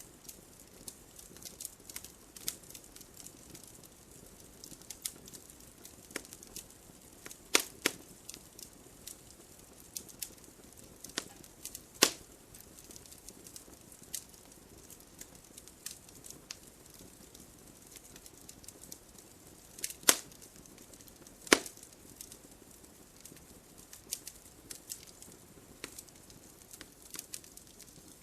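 Wood logs burning in a fireplace, crackling steadily with many small sharp clicks over a soft hiss. A handful of louder pops stand out, the strongest about 8, 12, 20 and 22 seconds in.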